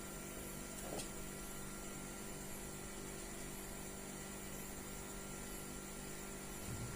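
Steady electrical hum with a layer of hiss, and one faint click about a second in.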